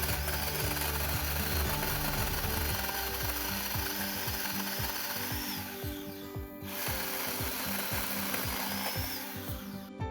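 A chainsaw cutting through wood in two long cuts, the first running about six and a half seconds and the second about three, each with a short rising whine near its end. Background music plays underneath.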